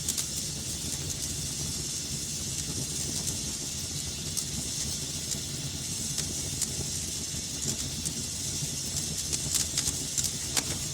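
Wood fire crackling in a fireplace: a steady low rumble and hiss of the flames with scattered sharp pops, which come more often near the end.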